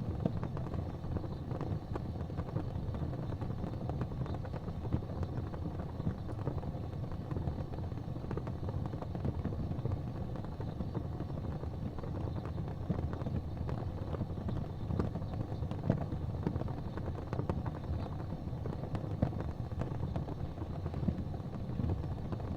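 Gas fireplace flames burning: a steady low rumble with small, scattered ticks and pops.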